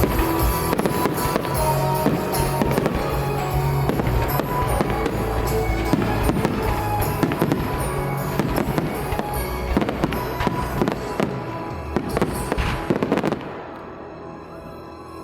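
Fireworks bursting and crackling in a dense, rapid barrage over loud music with a steady bass, cutting off abruptly about 13 seconds in.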